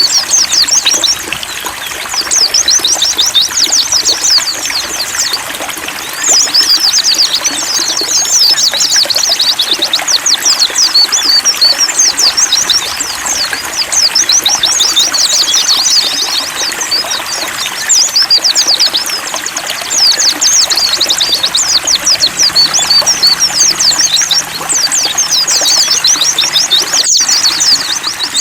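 White-eyes (pleci) singing long runs of rapid, high twittering notes that break off every few seconds for short pauses, over a steady trickle of running water.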